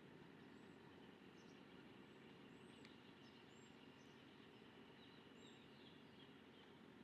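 Faint, short, high-pitched bird chirps every second or so over a steady low background rumble, with a quick little run of chirps near the end.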